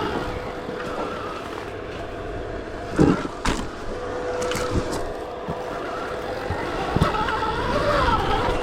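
Stark Varg electric dirt bike's motor whining and changing pitch with the throttle, over a rough rumble of riding on an off-road trail, with a few sharp knocks from the bike hitting bumps.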